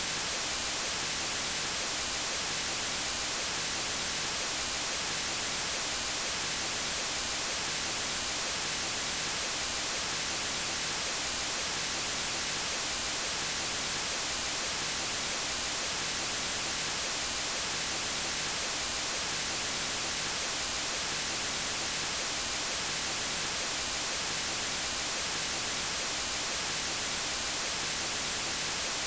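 Steady white noise: an even, unchanging hiss, brightest in the treble, with no breaks or events.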